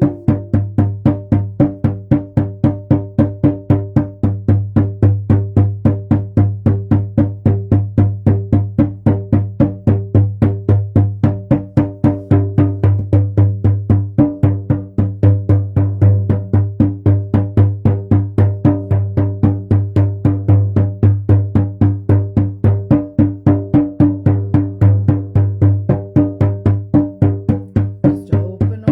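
Hand drum beaten in a steady, even rhythm of about four strokes a second, each stroke leaving a deep ringing boom, as a drumming meditation.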